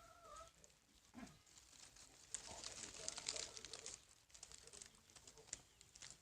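Faint whimpering from a puppy, with soft rustling and small clicks, busiest about two to four seconds in.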